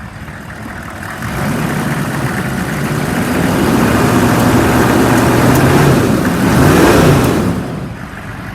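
A 6.5-litre V8 diesel engine in a 2002 Chevy 3500 truck being revved up from idle, held at high revs for several seconds, then dropping back to idle near the end. It revs up smoothly, which the seller takes as a sign the engine is in good shape.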